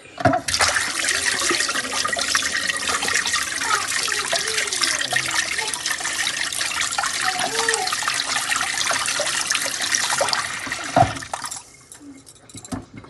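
Water running hard from a tap into a sink for about eleven seconds, starting abruptly and then shut off, with a knock just before it stops.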